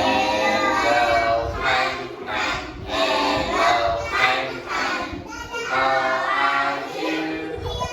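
A class of young children singing together in chorus, with an adult's voice among them, a simple hello greeting song.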